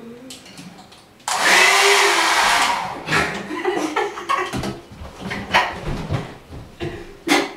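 Hair dryer switched on about a second in: a loud steady blowing that lasts a little over a second, then stops. A string of short, irregular sounds follows.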